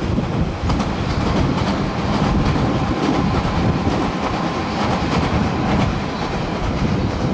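Nagoya Municipal Subway Higashiyama Line train passing on its above-ground section, a steady noise of wheels running on the rails.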